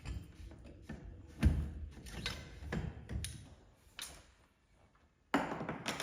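A run of irregular knocks and thumps, about eight of them, the loudest about one and a half seconds in and a longer, rougher one near the end after a short lull.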